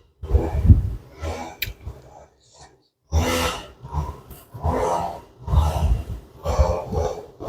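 A person eating close to the microphone: chewing and breathing in repeated bursts, with a brief pause about two seconds in.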